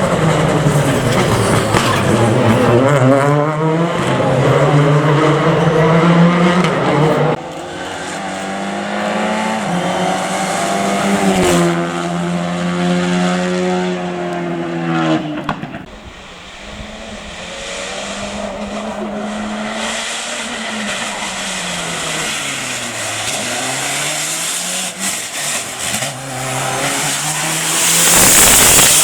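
Rally cars driven flat out: engines revving up and falling back through gear changes and braking, with some tyre squeal. The sound changes abruptly twice as clips of different cars are cut together, and a loud rush of noise comes near the end.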